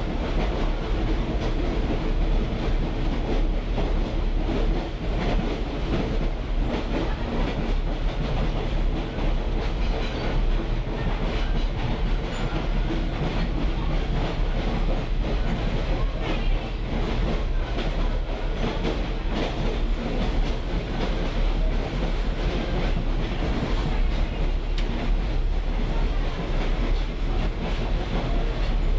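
Train rolling along at steady speed, heard riding in a caboose: a constant deep rumble with steady mechanical tones, and wheels and car body clicking and rattling throughout.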